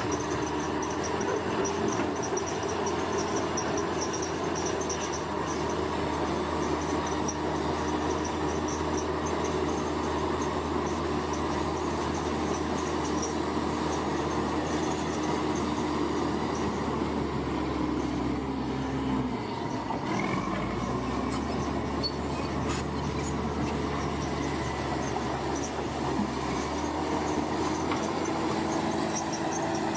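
Bulldozer's diesel engine running steadily with a continuous droning hum; about two-thirds of the way through its pitch sags briefly, then picks back up.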